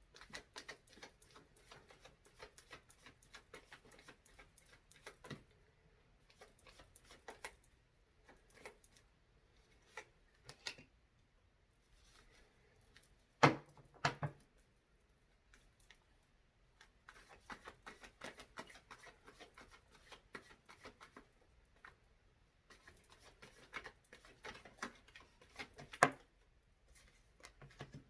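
A deck of tarot cards being shuffled by hand: flurries of quick papery clicks, broken by a few sharp louder snaps of the cards, twice around the middle and once near the end.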